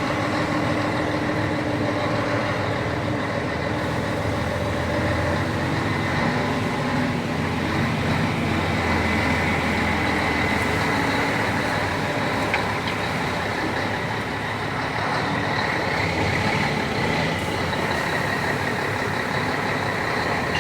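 Scania 113's 11-litre straight-six diesel engine pulling steadily in third gear as the truck crawls through a shallow swamp.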